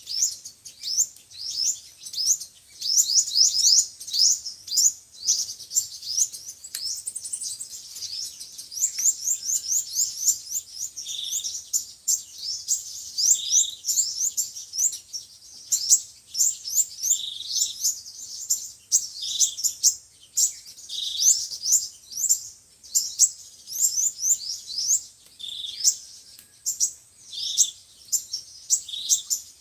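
Sunbirds singing: a fast, unbroken high twittering of short sweeping notes, with a lower short note repeating about every two seconds from about a third of the way in. This is a lure call played to attract sunbirds.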